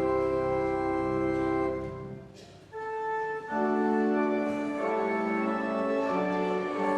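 Church organ playing the postlude: a held full chord with deep bass releases about two seconds in and rings away in the room. A new phrase of sustained notes then begins, with lower notes joining a moment later.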